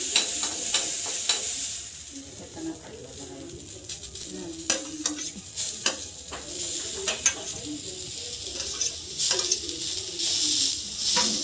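Green peas and onion sizzling as they fry in a steel kadhai, with a metal spoon clicking and scraping against the pan as they are stirred. The sizzle dips a little about two seconds in and picks up again near the end.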